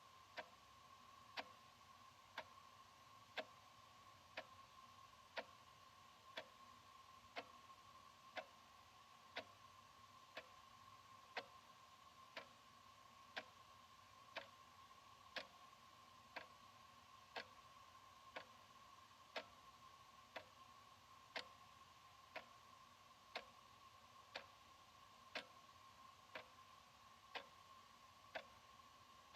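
Analog wall clock ticking, one sharp tick each second, evenly, over a faint steady tone.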